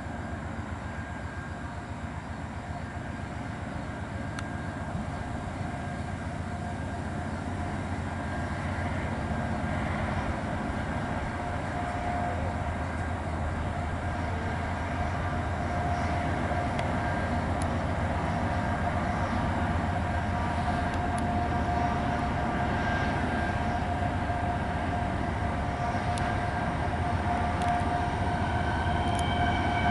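Norfolk Southern diesel-electric locomotives, led by a GE AC44C6M, drawing closer and growing steadily louder as they pull an eastbound intermodal train up the grade at Horseshoe Curve. There is a steady low engine drone throughout, and a few high steady tones come in near the end, the start of wheel flange squeal on the curve.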